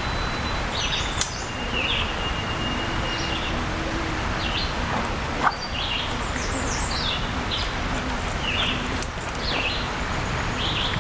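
Small birds chirping in short repeated calls over a steady rushing background noise, with a few sharp clicks.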